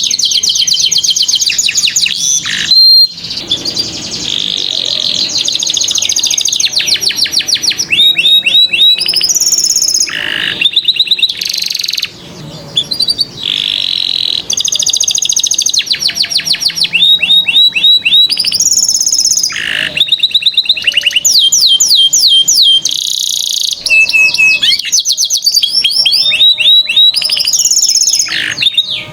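Domestic canary singing a long, varied song of fast trills and quick rising and falling chirps, with short breaks between phrases.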